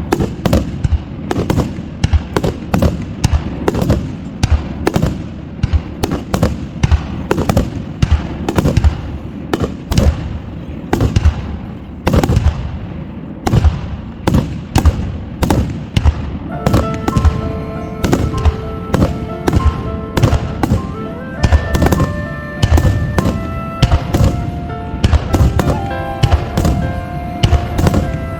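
Aerial fireworks bursting in rapid, continuous succession, a dense run of booms and cracks. From a bit past halfway, music with long held notes plays underneath the bursts.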